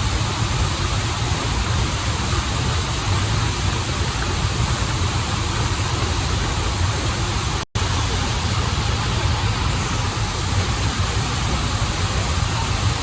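Steady rush of water from a stream and waterfall, an even hiss with a low rumble beneath it. The sound cuts out for an instant about eight seconds in.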